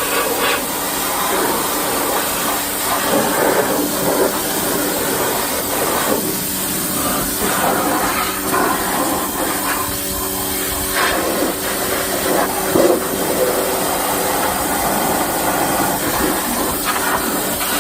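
Ryobi pressure washer running, its water jet spraying steadily with the pump's steady hum underneath.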